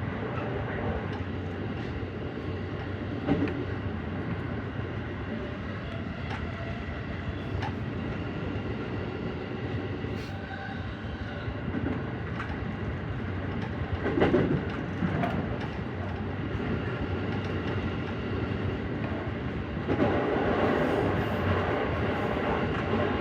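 A JR Central 313-series electric train running at speed, heard from inside the leading car: steady wheel-on-rail running noise with a few louder knocks. It grows louder about 20 seconds in.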